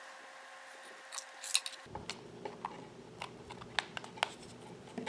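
Faint small plastic clicks and ticks from handling a Mocreo temperature sensor and plugging its probe cable into it: a quick cluster of clicks a little over a second in, then scattered single ticks.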